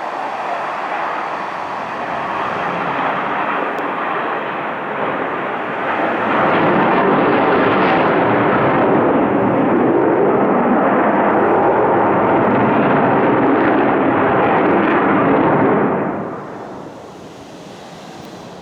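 Military fighter jets' engines on a steep climbing turn, a loud continuous jet noise. It swells sharply about six seconds in, holds at full strength, then falls away quickly a couple of seconds before the end.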